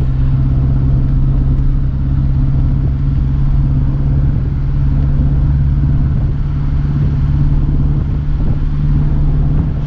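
Reliant Regal three-wheeler's small four-cylinder engine pulling steadily at cruising speed, heard from inside the cabin with road rumble.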